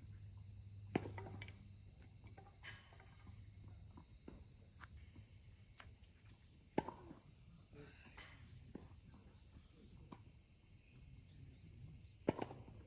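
Tennis ball strikes: three sharp, loud hits about five and a half seconds apart, with fainter ticks between them, over a steady high hiss.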